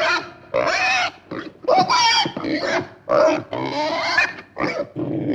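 Pig squealing in a quick run of about six short, high-pitched calls with brief gaps between them.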